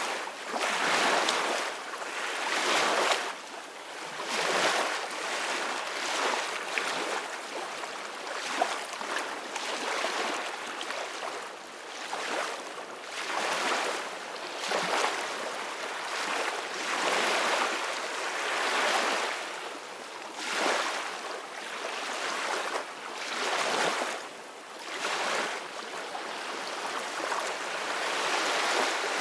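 Ocean waves breaking and washing on the shore, a steady rush of surf that swells and eases every second or two.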